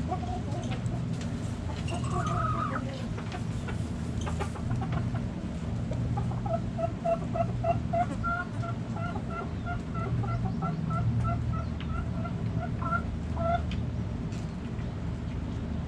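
Backyard chickens calling: a short call about two seconds in, then a hen clucking in a quick even run of about three clucks a second for some seven seconds. A steady low rumble runs underneath.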